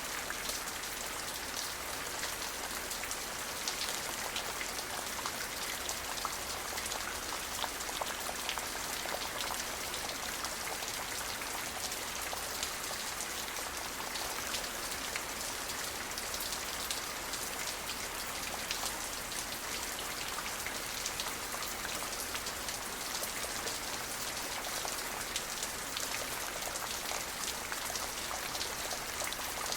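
Steady rain falling, an even hiss dotted with the ticks of individual drops hitting a surface.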